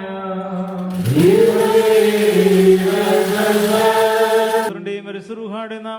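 Orthodox liturgical chanting: a voice chants on a steady pitch, then about a second in a louder sung note swoops up and is held for about three and a half seconds before the recited chant returns.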